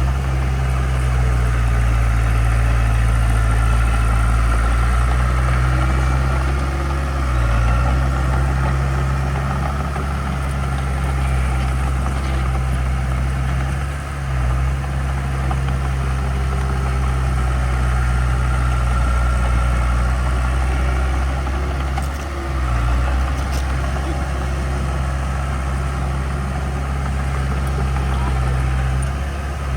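Heavy diesel engine of construction equipment running steadily, its note dipping briefly every several seconds.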